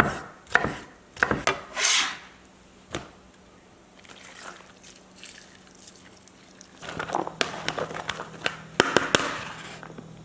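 Kitchen knife dicing tomatoes on a cutting board: a few sharp strikes in the first three seconds, then quieter handling and scraping with a few light knocks near the end.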